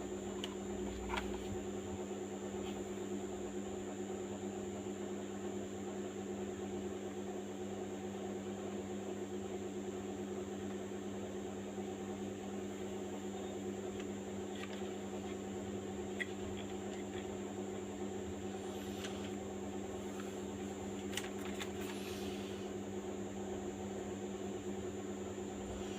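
Steady mechanical hum with a faint high whine, unchanging throughout, with a few faint clicks past the middle.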